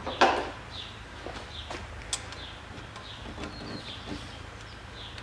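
A small bird repeatedly giving a short falling chirp, roughly twice a second, with a few short clicks and knocks underneath, the sharpest just after the start.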